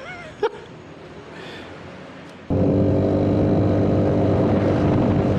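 Italjet Dragster 200cc scooter engine running steadily. It cuts in abruptly about two and a half seconds in, after a quieter stretch with a single click.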